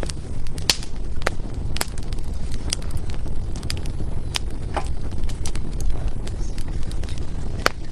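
Wood fire burning in a fireplace: irregular sharp crackles and pops from the burning logs over a steady low rumble of flame.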